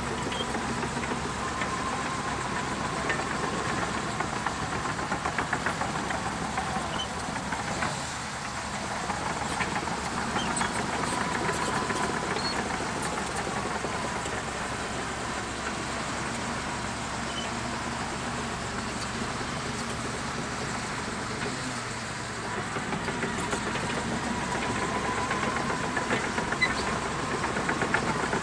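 Shantui DH17C2 bulldozer's diesel engine running as it works, swelling louder and easing off several times, with a rapid clatter and a faint high whine over it.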